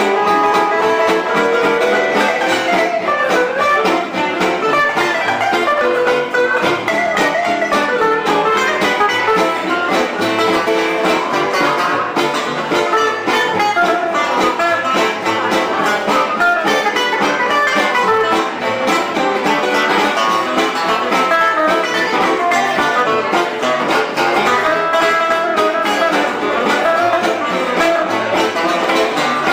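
Live band music: an instrumental tune led by plucked guitars, playing steadily without a pause.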